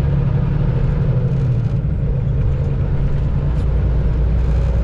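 Semi truck's diesel engine running, heard from inside the cab as a steady low rumble. A hum in it drops away about three and a half seconds in.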